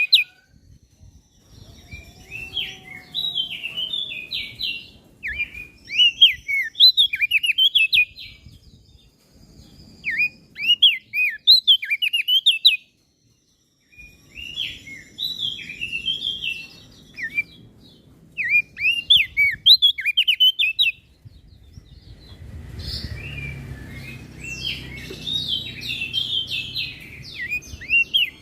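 Small songbird singing in bursts of fast, high chirping twitters, phrases a few seconds long separated by short pauses, with a brief silence just before the middle. In the last third the chirping becomes denser and continuous, over a low rumbling background noise.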